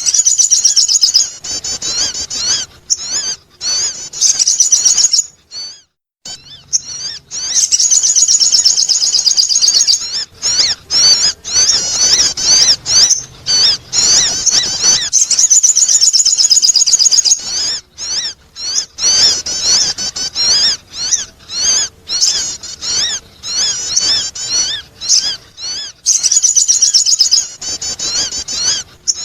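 Sogon bird calling in fast, high-pitched chirping runs, loud and almost continuous, with a short break about six seconds in; a bird-lure recording meant to attract other birds.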